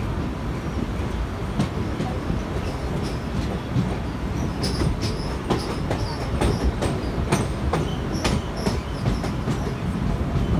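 Electric suburban local train (EMU) running at speed, heard from on board with the door or window open: a steady low rumble of the coach, with the wheels clicking irregularly over rail joints and points, the clicks thickening from about two and a half seconds in. A few short high wheel squeals come in around the middle.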